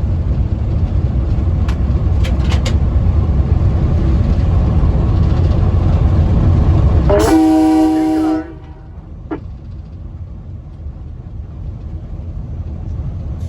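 A train rolling along the rails with a heavy low rumble, and a few short clicks in the first few seconds. About seven seconds in, the train horn sounds one blast of a bit over a second. The rumble drops off sharply as the horn ends.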